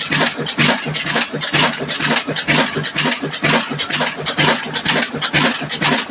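Old black diesel engine running with a steady, rhythmic firing beat.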